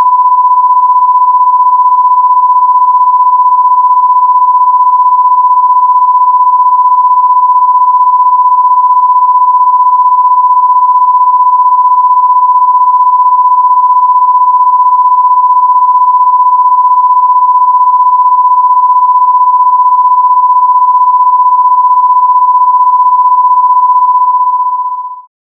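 A loud, steady electronic sine tone held at a single high pitch, the standard test-tone and censor-bleep pitch. It fades out quickly near the end.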